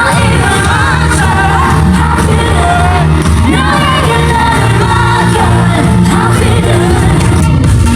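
Loud live pop concert music: a singer over a steady bass beat.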